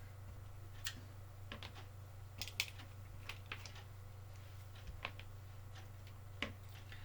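Scattered light clicks and snips of small hand tools handling and cutting electrical wire at a workbench, at irregular intervals, with the loudest click about two and a half seconds in. A steady low hum runs underneath.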